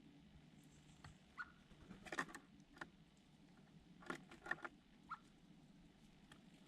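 Faint scattered tapping and scratching from small birds, in two short flurries, with a few brief chirps.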